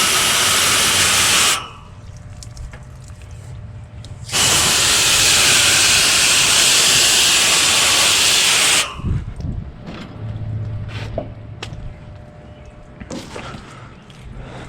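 Garden hose spraying water onto an air conditioner's condenser coil: a short spray that stops about a second and a half in, then a longer one of about four and a half seconds. Between and after the sprays, quieter rustling and a few clicks.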